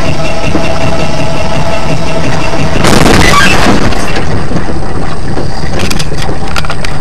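Car engine and road noise heard from a dashcam inside a car, with a sudden loud burst of noise about a second long about three seconds in, and a few sharp clicks near the end.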